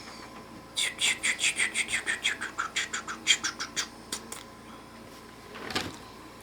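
A bird chirping in a quick run of about twenty short, high notes, each falling in pitch, about six a second. A single knock comes near the end.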